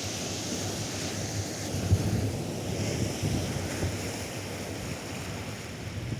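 Atlantic surf washing onto a sandy beach, a steady hiss of breaking waves, with wind buffeting the microphone in low gusts, strongest about two seconds in.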